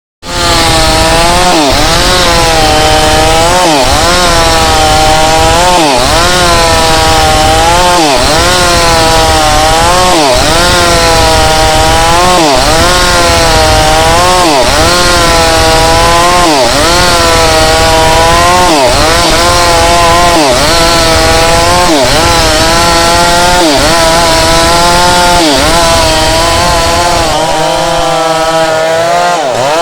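Mini chainsaw ripping wood lengthwise into planks. Its engine pitch dips under load and recovers about every two seconds as the chain bites into the cut.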